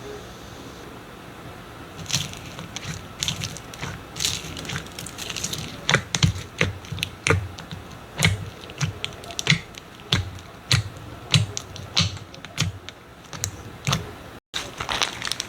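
Slime being played with, making a run of sharp, irregular clicks and crackles, about two a second, from about two seconds in.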